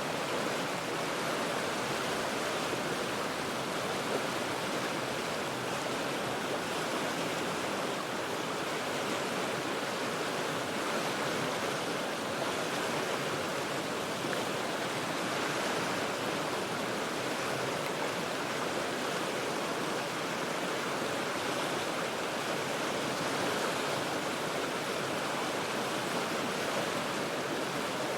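The Cheat River running over rocks: a steady, even rush of water that never changes or breaks.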